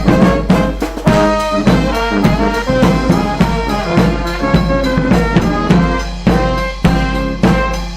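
Brass band playing an upbeat tune, horns over a steady drum beat.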